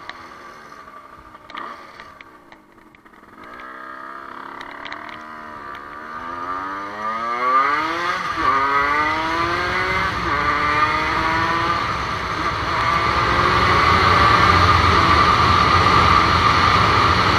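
Dirt bike engine accelerating hard through several gears: the pitch climbs again and again, dropping briefly at each gear change, then holds at steady high revs.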